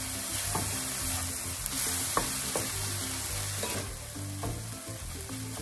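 Chopped chicken, vegetable and kimchi filling sizzling in oil in a frying pan as it is stirred, with a few light knocks of the utensil against the pan.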